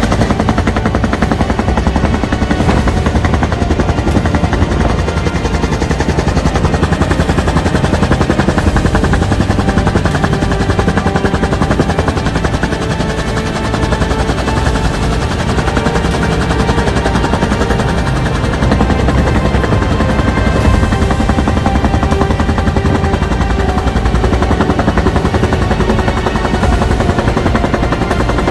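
Bell UH-1 Huey helicopter running loud and steady: the rapid, even chop of its two-blade main rotor over the turbine's whine.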